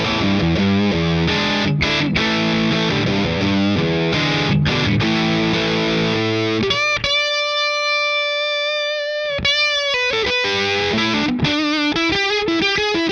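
Distorted electric guitar playing through an effects pedal: thick strummed chords, then one long sustained note held for a couple of seconds, then a quicker single-note riff.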